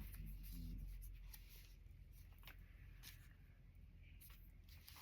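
Near silence with faint, scattered rustles and light taps of paper as cut-out magazine pictures are handled.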